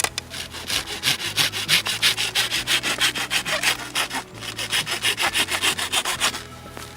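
Hand saw cutting through wood in quick, even back-and-forth strokes, with a brief pause about four seconds in.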